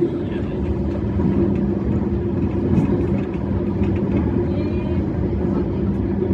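E131-series electric train running along the line, heard from on board: a steady rumble with an even motor hum.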